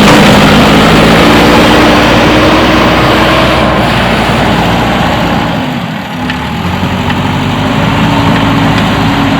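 JCB backhoe loader's diesel engine running close by at a steady speed. About six seconds in, its note drops briefly and then picks back up.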